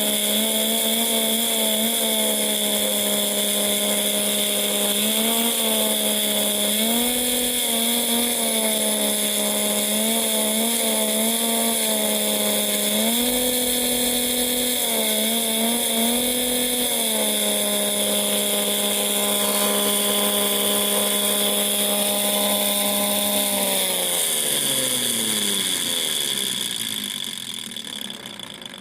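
Lego vacuum engine running fast with a high buzzing drone like a nitro model engine, its pitch jumping up in short bursts several times. About 24 seconds in it spins down, its pitch falling as it fades. A steady high whine runs underneath.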